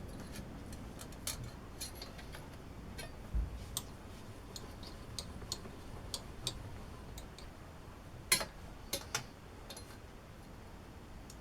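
Scattered small clicks and taps of tools and metal parts being handled, at an irregular pace, with the sharpest click a little past eight seconds in and two more just after.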